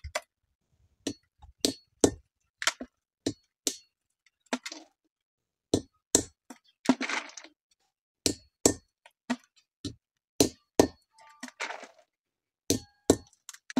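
Andız (Syrian juniper) berries being cracked open by repeated striking: about twenty sharp knocks with a short ring, coming irregularly at one or two a second, with a couple of brief crunching stretches as the hard stones break.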